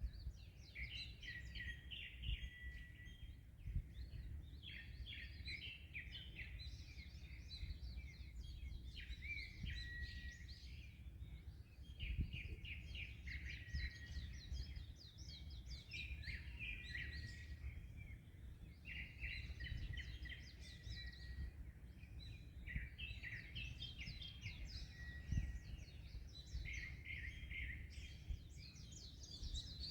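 Small birds chirping and twittering almost without pause, over a steady low rumble of wind and surf, with a couple of brief low thumps.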